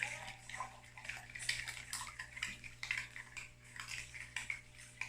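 Thick cake-like batter being stirred by hand in a bowl: irregular wet, sloshing strokes, some with a scrape against the bowl, over a steady low hum.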